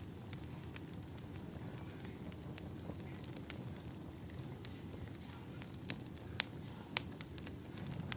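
Fireplace crackling: a steady low rumble of burning wood with scattered sharp pops and snaps, the loudest two about six and a half and seven seconds in.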